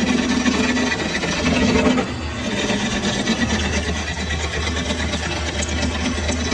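Metal lathe running steadily, a continuous low hum with a dense mechanical noise over it.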